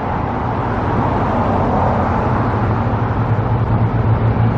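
Road traffic noise: a steady rush of passing vehicles, with a low engine hum growing stronger near the end.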